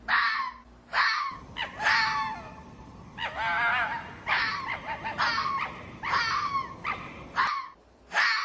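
A dog yelping and whining: short, high cries repeating about once or twice a second, with a longer wavering whine about three seconds in.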